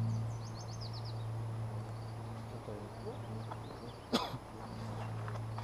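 A small bird gives a quick run of about six short, high, descending chirps near the start, over a steady low hum. About four seconds in there is a single sharp knock.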